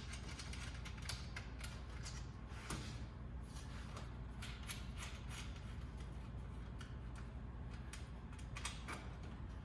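Hand tools working loose the bolts of a radiator fan shroud: a run of irregular light clicks and ticks over a steady low hum.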